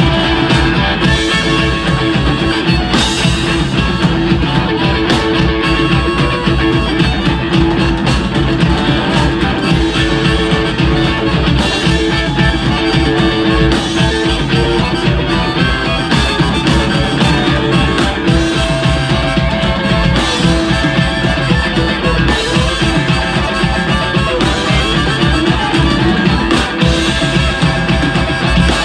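Live blues band playing an instrumental passage with guitar, without vocals.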